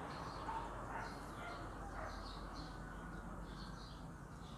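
Birds chirping in the background: a run of short, high chirps every half second or so over a steady outdoor hiss.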